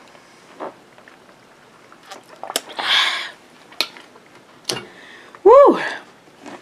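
A person chewing a mouthful of food, with wet mouth clicks and smacks. A breathy burst comes about three seconds in. Near the end there is a short hummed vocal sound, like 'mm', that rises and falls in pitch and is the loudest moment.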